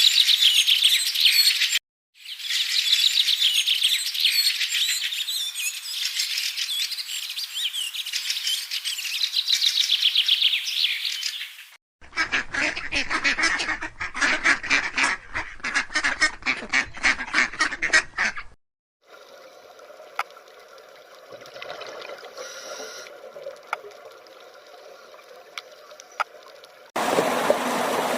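A run of bird calls: dense, high, rapid chirping for about ten seconds, then about six seconds of harsh calls repeated quickly, typical of ducks or geese. A quieter stretch with faint tones follows, and near the end a rush of running water begins.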